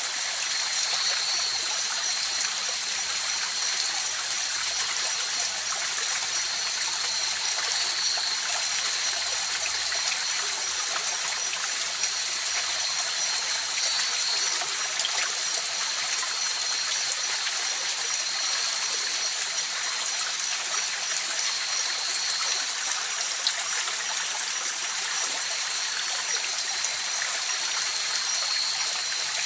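A river's flowing water, a steady rushing and trickling. Above it runs a continuous high-pitched trill that pauses briefly in the second half.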